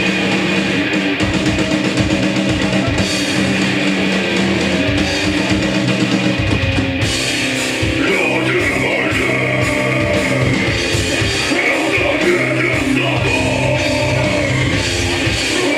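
Live hardcore punk band playing loud and fast: distorted electric guitars over a pounding drum kit.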